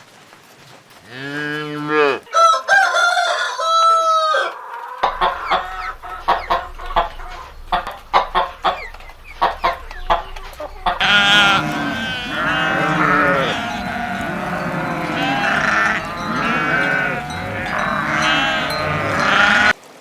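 Farm animal calls: a low cow moo about a second in, then a rooster crowing and hens clucking in quick short notes. From about halfway on, a dense chorus of many overlapping animal calls fills the rest.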